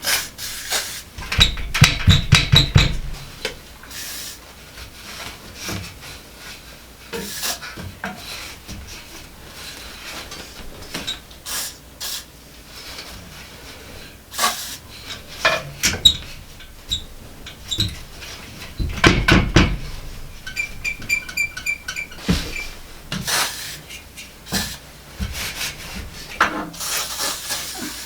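WD-40 aerosol sprayed in bursts of hiss onto the joints of a squeaking metal slatted bed frame, mixed with knocks and clatter of the metal slats being handled. About three-quarters of the way through comes a quick run of short squeaks.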